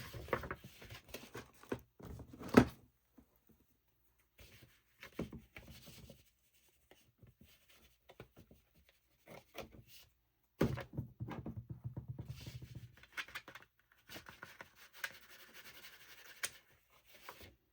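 Hands working paper and craft tools on a table: scattered taps and rustles, a sharp knock a few seconds in, a heavier thunk about eleven seconds in followed by a couple of seconds of low rubbing, then paper rubbing near the end.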